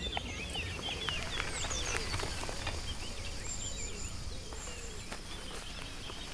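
Small birds chirping and twittering in many short, quick calls, busiest in the first half, over a steady low rumble of background noise, with a few faint clicks.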